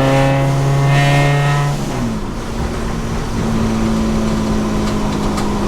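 Supercharged Honda K24 engine running while the car is driven: a steady drone that drops in pitch about two seconds in as the revs fall, then holds steady at the lower pitch.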